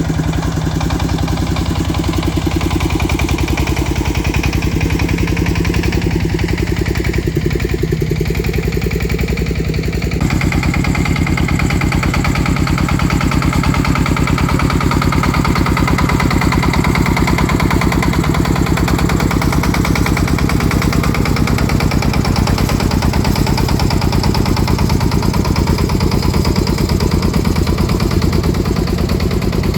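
Farm truck engine running steadily with an even, rapid firing beat. It picks up slightly and gets a little louder about ten seconds in.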